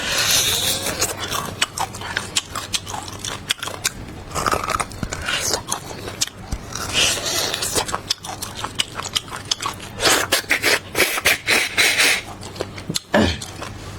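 Close-miked eating: biting and chewing with a dense run of sharp crunches and crackles, busiest and loudest about ten seconds in.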